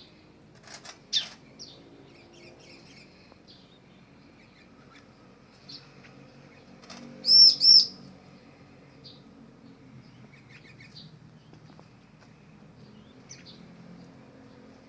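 Small birds chirping, with scattered short high calls and two loud arching chirps about halfway through. A short clatter of sharp clicks about a second in.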